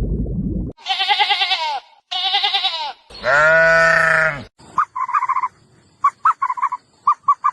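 Livestock bleating: two quavering bleats, then a longer, louder call that rises and falls, followed by a run of short, sharp calls. A low rumbling noise cuts off under a second in.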